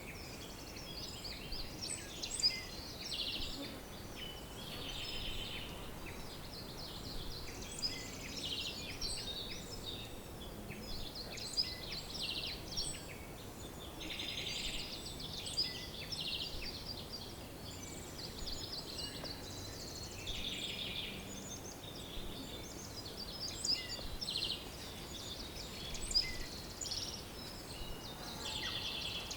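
Several songbirds singing and chirping over one another: short chirps and fast trills come and go throughout, over a steady soft background hiss.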